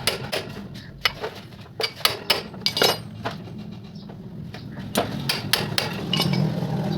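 Metal hand tools tapping, knocking and clinking on the metal parts of a Honda CD 70 engine being taken apart: a run of sharp, irregular strikes, bunched about two and five seconds in.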